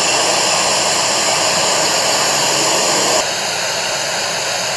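Steady rushing hiss, as from wind on an outdoor camera microphone, with faint constant tones; it drops a little in level suddenly about three seconds in.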